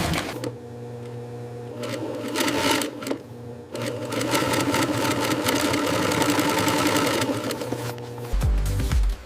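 Sewing machine running steadily, stopping briefly a few times and starting again.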